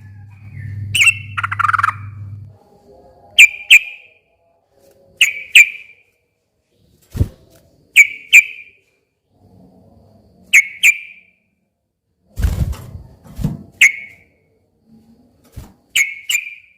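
Yellow-vented bulbul (trucukan) calling in short, sharp paired notes, repeated every couple of seconds. A low hum runs under the first couple of seconds, and a few low thumps fall between the calls.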